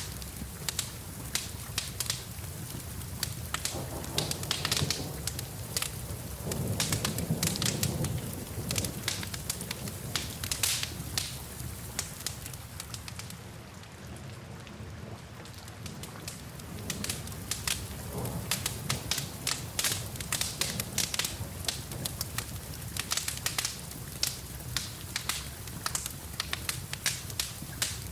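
Wood fire crackling and popping over steady rain, with a low rumble beneath. The crackles thin out briefly a little past the middle, then return.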